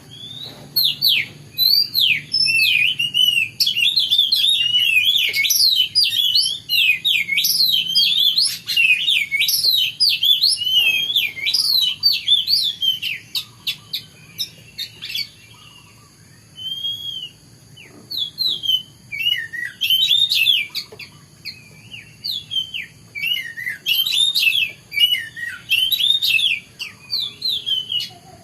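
Oriental magpie-robin singing a fast, varied run of whistled notes that sweep up and down. It goes quieter for a few seconds about halfway through, then starts again.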